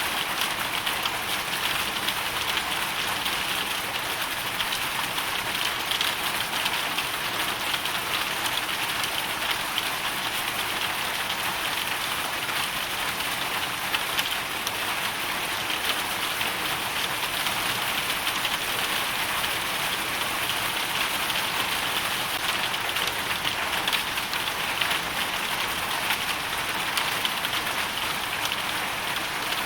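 Hail storm: a dense, steady stream of fine ticks from hailstones and rain striking a surface, over a constant hiss.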